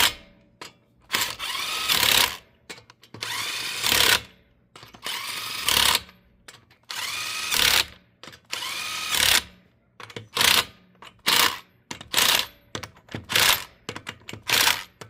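Cordless power tool run in repeated bursts, each starting with a rising whine. The first five bursts last about a second each, then from about ten seconds in come shorter, quicker blips.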